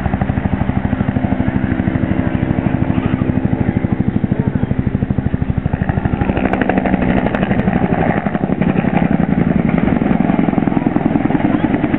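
Aircraft overhead: a loud, fast-pulsing engine drone that swells from about halfway through as it comes closer.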